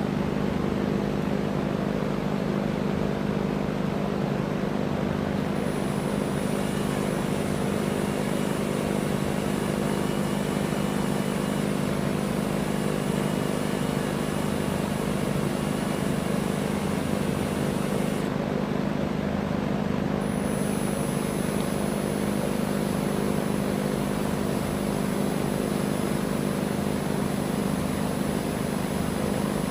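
Electric drill running steadily under load, a constant motor hum, drilling through the steel rear trunnion.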